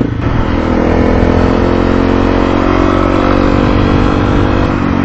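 Motorcycle engine opening up right at the start and pulling away under throttle, its note rising slowly and steadily as the bike accelerates.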